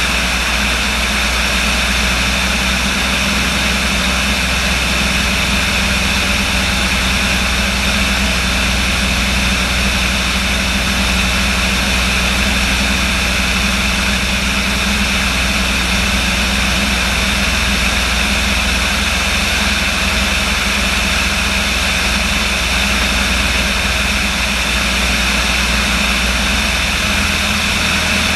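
Light aircraft's engine and propeller running with a steady, unchanging drone.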